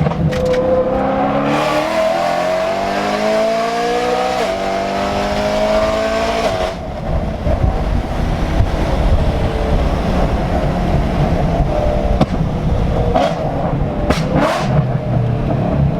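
Straight-piped BMW E90 M3's 4.0-litre S65 V8 accelerating hard, its pitch climbing, dropping at a quick upshift about four seconds in, then climbing again. About seven seconds in it gives way to a rougher, deeper exhaust sound with several sharp cracks in its later part.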